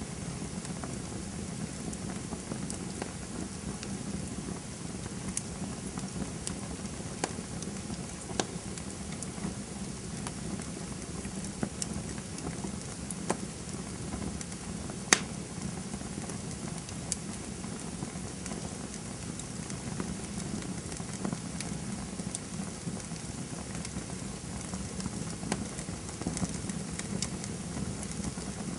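Campfire burning with a steady low rush of flames and scattered sharp crackles and pops, one louder pop about halfway through.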